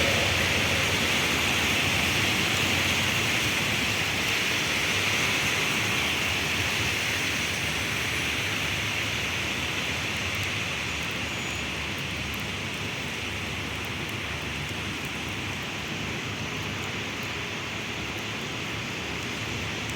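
Heavy rain falling in a steady hiss that slowly grows quieter.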